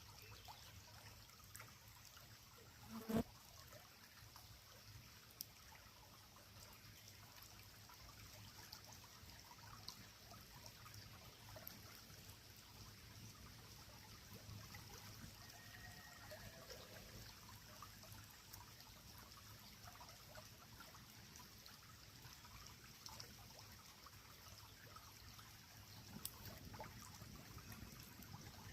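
Faint, steady trickle of a flowing creek, with scattered small clicks and one sharp snap about three seconds in.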